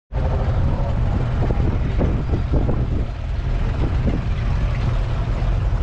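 John Deere 6400 tractor's 4.5-litre four-cylinder diesel engine running steadily.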